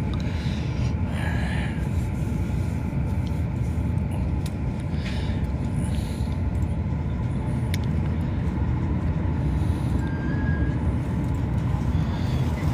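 Rapid commuter train running between stations, heard from inside the carriage: a steady low rumble of wheels and running gear, with a few faint ticks.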